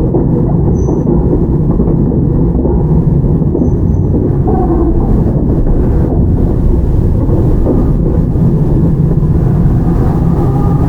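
Toyama Chiho Railway 17480-series electric train (ex-Tokyu 8090) running steadily between stations: a continuous low rumble of wheels on rail and running gear.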